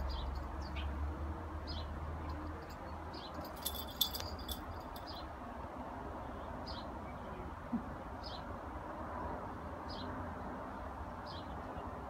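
A small songbird gives short, falling chirps about once every second or so throughout. A brief high jingle about four seconds in is the loudest sound. Wind rumbles low on the microphone.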